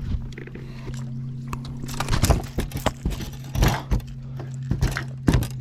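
Short knocks, clatters and splashy handling noises on a fishing boat, thickest from about two seconds in, over a steady low hum.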